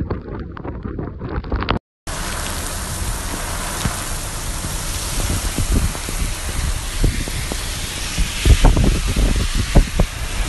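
Heavy rain falling in a steady hiss, with gusts of wind buffeting the microphone in irregular low thumps through the second half. The sound cuts out briefly about two seconds in.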